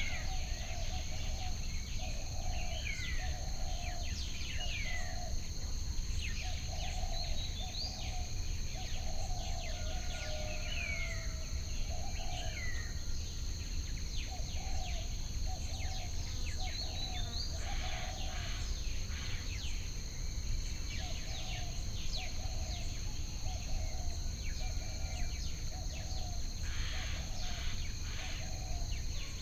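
Added nature ambience of wild birds calling, with short sweeping chirps and a run of short repeated low calls, over a steady high insect drone and a low steady rumble.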